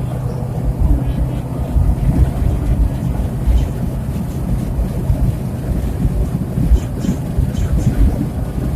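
Car driving on a highway: a steady low rumble of road and engine noise with a constant hum.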